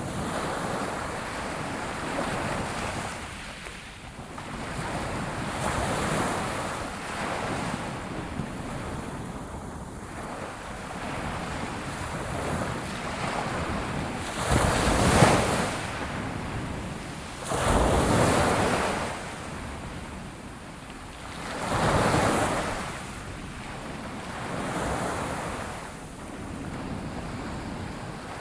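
Ocean waves breaking and washing on a shore, swelling and falling every few seconds, with the biggest breakers about halfway through.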